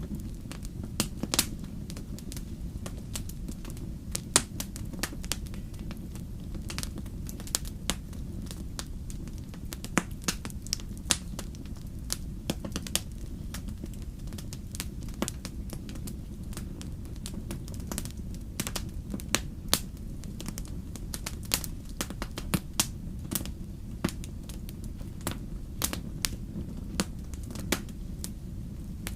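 Wood fire in a fireplace crackling, with frequent irregular sharp pops and snaps, a few louder than the rest, over a steady low rumble.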